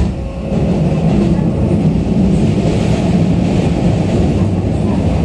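Interior running noise of a Keikyu New 1000 series aluminium train car on the move: a steady low rumble of wheels on rail and car body. It grows louder about half a second in, then holds steady.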